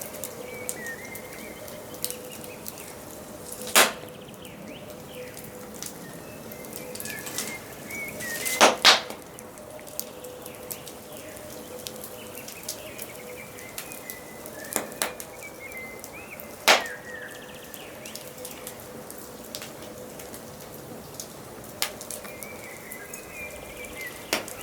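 Wood fire crackling with a steady hiss and a few loud sharp pops, one pair close together, while small songbirds chirp in short, repeated phrases.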